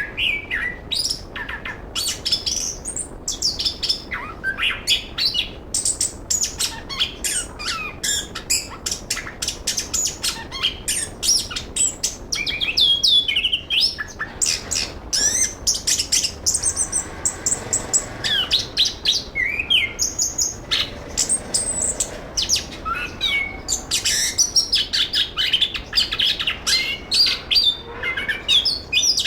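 Chestnut-capped thrush (anis kembang) singing: a fast, unbroken run of varied chirps, clicks and rising and falling whistles.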